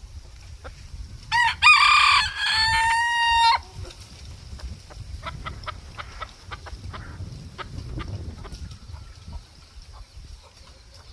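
Black-breasted red bantam Phoenix rooster crowing once, about a second and a half in: a high crow of about two seconds that ends in a long held note. Faint scattered ticks and clicks follow.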